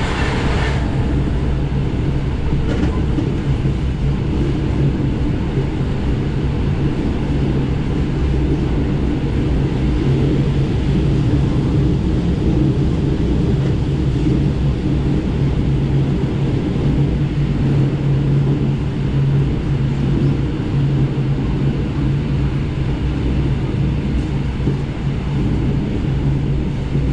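Steady low rumble and hum of an SKM electric suburban train running along the line, heard from inside the carriage.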